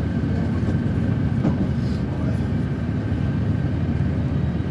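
Steady low drone of an airliner in flight, heard from inside the passenger cabin, with a faint steady high tone over it.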